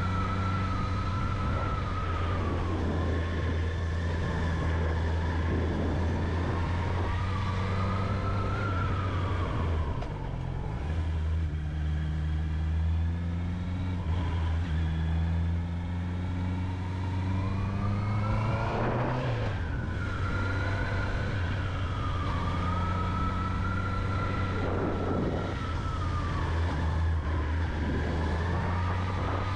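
Honda CB650R's inline-four engine running under way, its pitch rising and falling with the throttle. It dips about ten seconds in, then climbs and drops sharply just before twenty seconds, as with a gear change.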